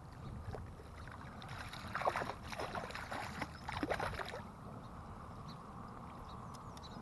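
Water splashing and sloshing for about three seconds, starting about a second and a half in, over a steady low rumble.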